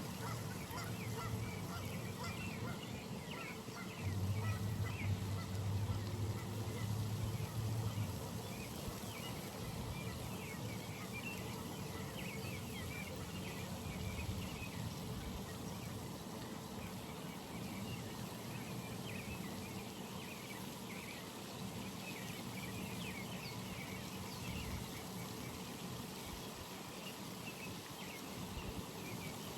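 Pond ambience with geese and ducks calling over a dense chatter of short high chirps. A low rumble rises for a few seconds about four seconds in.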